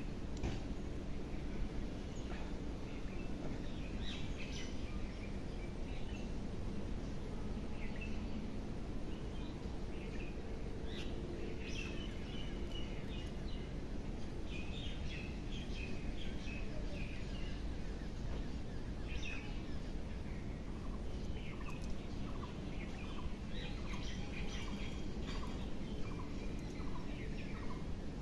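Birds chirping on and off over a steady background hum. In the last third a short lower call repeats steadily, a little under twice a second.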